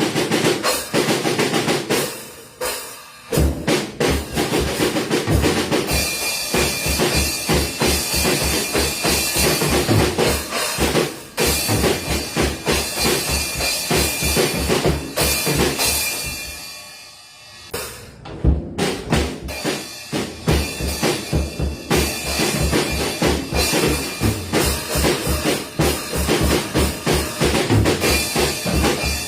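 Drum kit being played hard: a fast, steady bass drum beat under snare hits and constantly washing cymbals. The playing drops briefly about two seconds in, then dies away about two-thirds through before starting up again.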